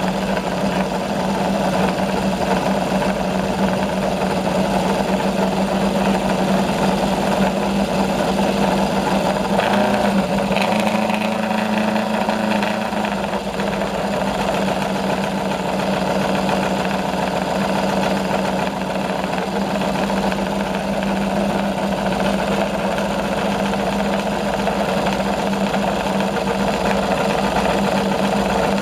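2014 PBM Aprilia MotoGP race bike's V4 engine idling steadily during its warm-up. About ten seconds in, the idle rises slightly for a few seconds, then settles back.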